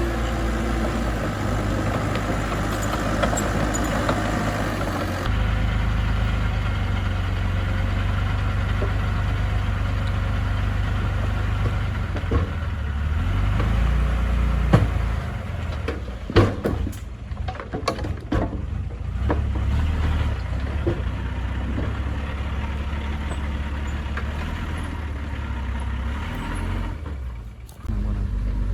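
Diesel engine of heavy construction machinery running steadily, with a few sharp clanks and knocks from about twelve to nineteen seconds in.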